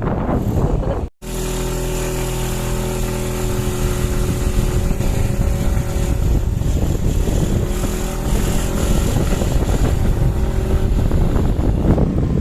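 Motorcycle engine running at a steady speed. It starts abruptly after a brief dropout about a second in.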